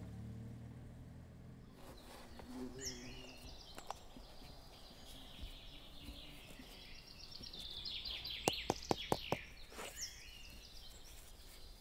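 Small songbirds chirping and trilling in a garden, with a quick run of about six sharp clicks near the two-thirds mark. A car's low engine hum fades out in the first two seconds.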